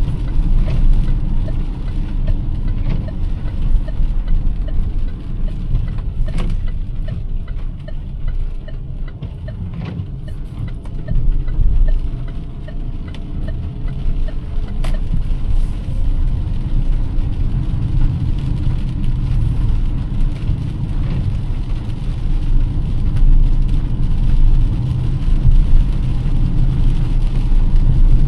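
Car driving, heard inside the cabin: a steady low rumble of engine and road noise. A light, regular ticking runs through the first half.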